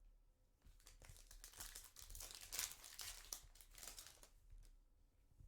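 Foil trading-card pack wrapper crinkling as it is handled and torn open, a dense crackle from about a second in that fades near the end.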